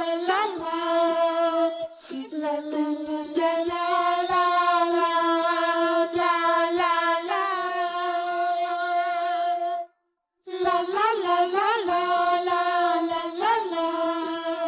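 A child's voice singing a wordless 'la la la' tune in long held notes, with a brief complete break about ten seconds in.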